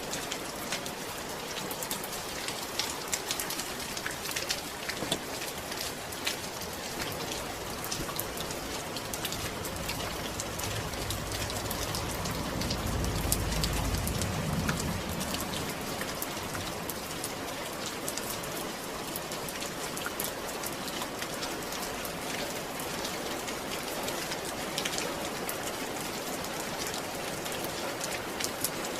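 Steady rain falling, an even hiss with many sharp individual drop hits. A low rumble swells and fades about halfway through.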